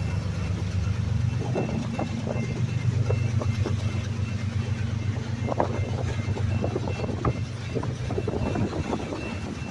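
Freight train rolling past: a steady low diesel rumble with frequent sharp clicks and clanks of wheels and cars over the rail, starting about a second and a half in.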